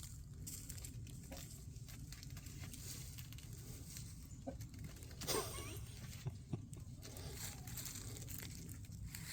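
Faint rustling and crunching over a steady low hum, with a short louder sound a little past halfway.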